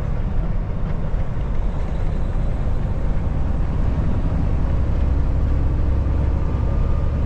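Steady engine and road rumble heard inside the cab of a Kenworth T680 semi truck cruising along a back road.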